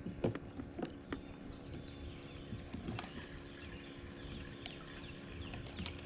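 Scattered light knocks and clicks of gear against a kayak hull, at uneven intervals, over a faint steady hum.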